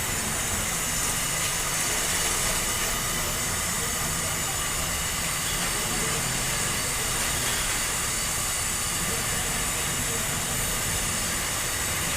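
A steady hiss that holds at one level throughout, with no distinct knocks or pitch changes.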